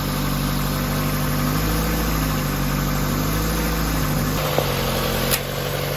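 Car engine idling steadily, its tone shifting slightly about four seconds in, with a couple of light clicks near the end.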